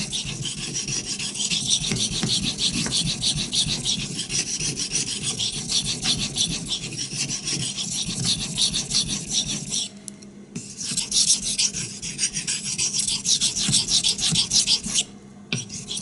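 Steel knife blade (Bark River, CPM-3V) stroked rapidly and regularly back and forth on a whetstone, a steady scraping rasp. The strokes break off briefly twice, about ten seconds in and near the end.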